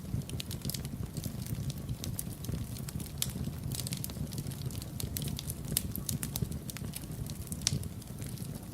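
Wood fire burning in a fireplace: a steady low rumble of the flames with irregular crackles and occasional sharper pops.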